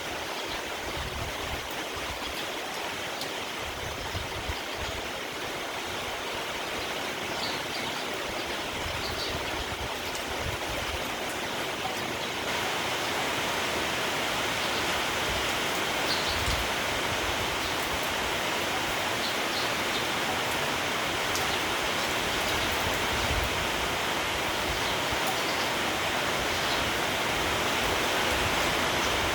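Steady rain, growing heavier about twelve seconds in, with wind gusting over the microphone and a few faint sparrow chirps.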